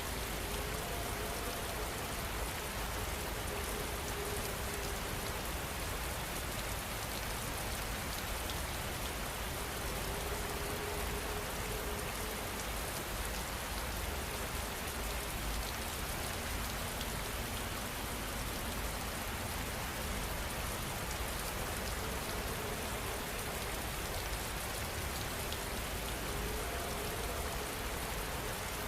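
Steady, heavy rain falling and pattering on surfaces, an even hiss of drops that does not let up.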